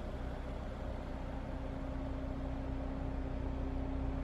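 Car engine idling: a steady, even hum with no revving.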